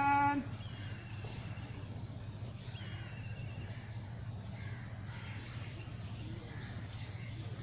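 Faint, short trilled bird calls, twice, about one and three seconds in, over a steady low hum; a voice says a count right at the start.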